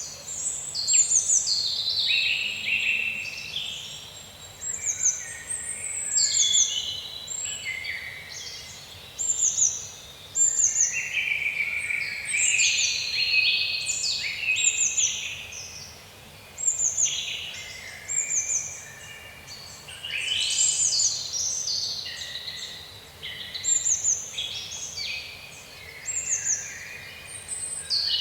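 Several songbirds singing and chirping over one another, with short high whistled notes that fall in pitch repeating about once a second.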